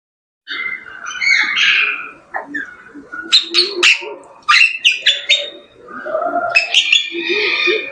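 Birds chirping and squawking in a busy, irregular stream of sharp calls, starting suddenly about half a second in.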